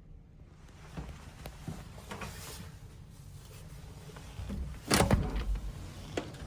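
Light clicks and knocks of things being handled, then a heavier thump about five seconds in.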